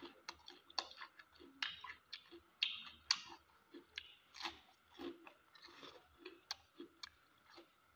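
Close-up mukbang eating sounds: a man chewing a handful of fish curry and pasta eaten by hand, with open-mouthed smacking and many short, wet clicks a few times a second.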